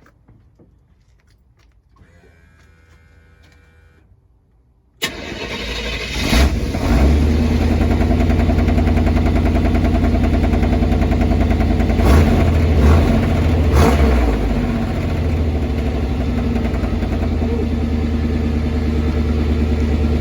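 Pickup truck engine cold-started, heard at the exhaust pipe: it fires about five seconds in, flares up briefly a few times, then settles into a steady idle.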